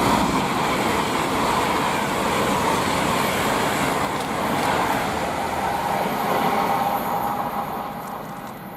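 Class 390 Pendolino electric train passing through the station, a steady rush of wheels and air with a faint whine, fading away near the end.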